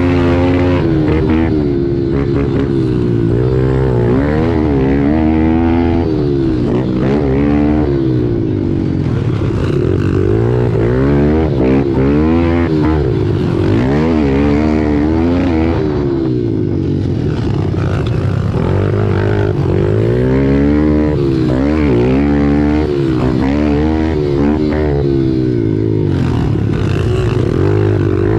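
Pit bike engines revving up and falling back over and over as the bikes accelerate and shift, several engines at once with their pitches crossing.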